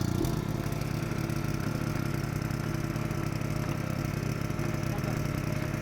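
Engine running steadily at an even speed, a low rumble with a fast, regular flutter.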